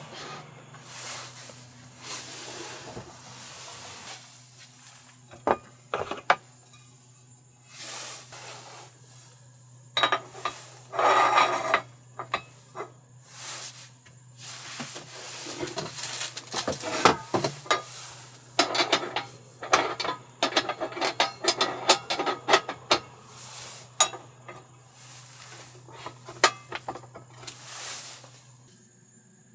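Objects being handled at close range: rustling, scraping and light clinks of utensils or dishes, over a steady low hum.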